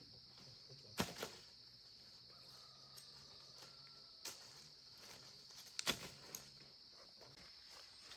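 Two sharp knocks about five seconds apart over a steady high-pitched drone, with a faint low hum fading out near the end.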